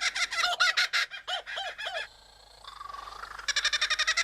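Superb lyrebird singing, mimicking the rapid chuckling laugh of a kookaburra, which breaks off about two seconds in. A brief rising whistle follows, then another fast run of mimicked calls near the end.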